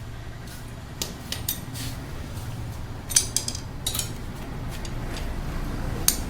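Metal hand tools clinking against the motorcycle's engine parts during unbolting: scattered sharp clinks, the loudest about three seconds in.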